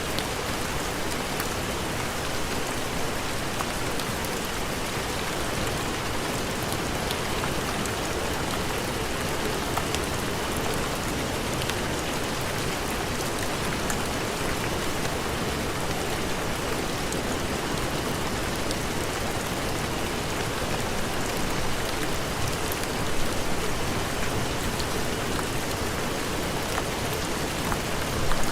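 Steady heavy rain: an even hiss of rain on surfaces with scattered drop ticks, swelling slightly near the end.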